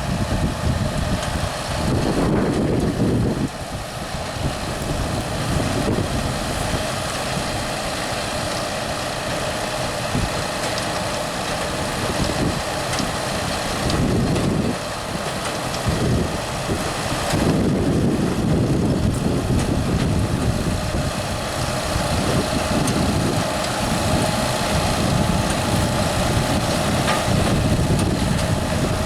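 Fendt 716 tractor running steadily while towing a Grimme SE 85-55 potato harvester at work: a continuous engine and machinery drone with a steady hum, its low end swelling and fading every few seconds.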